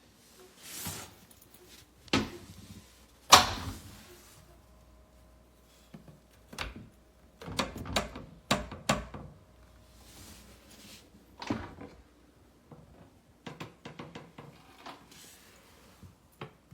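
Plastic flap of an interior cat door swinging and knocking against its frame in a series of irregular knocks and rattles. The loudest knock comes about three seconds in, and a cluster of knocks follows around eight seconds in.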